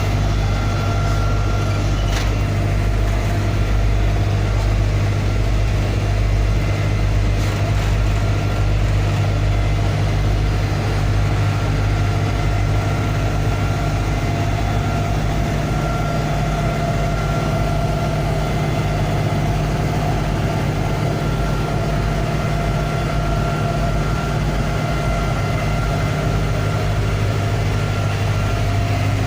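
A ferry's engines running steadily: a constant low hum with no change in speed.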